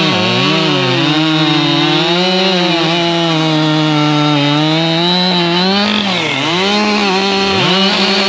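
Husqvarna two-stroke chainsaw running at high revs while cutting a log. The engine pitch sags and recovers again and again as the chain loads in the wood, with two deep dips near the end.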